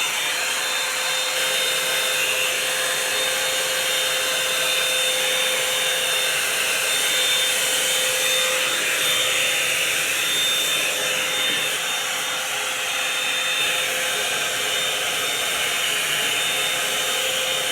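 Revlon One-Step hot-air brush dryer running steadily: a whir of blowing air with a steady hum and a high whine, as it is worked through a section of hair.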